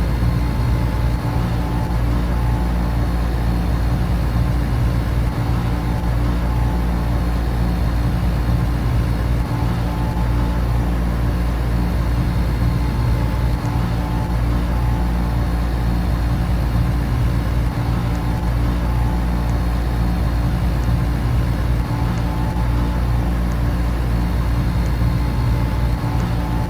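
Air conditioner and electric fans running together: a steady, unchanging hum and rush of moving air, strongest in the low end.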